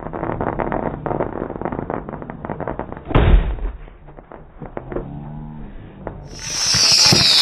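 Fireworks crackling and popping in quick succession, with one loud bang about three seconds in. Near the end the sound changes suddenly to a louder, different recording.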